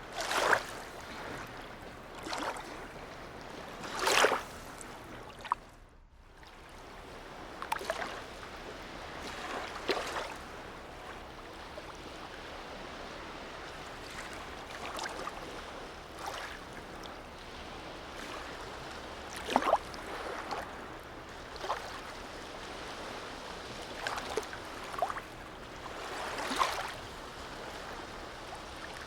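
Small harbour waves lapping and splashing in short, irregular slaps over a steady low wash of water. The sound drops away briefly about six seconds in.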